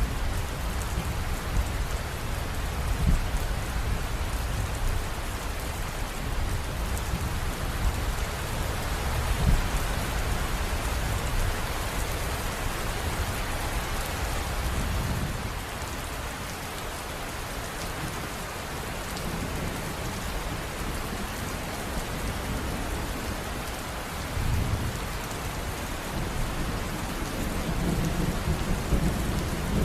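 River water running: a steady rushing noise with a low rumble underneath that swells and eases.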